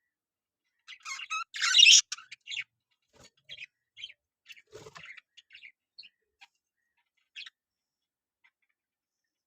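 Budgerigars chirping and chattering: a loud burst of chatter near the start, then scattered short chirps, with a soft low thump about five seconds in.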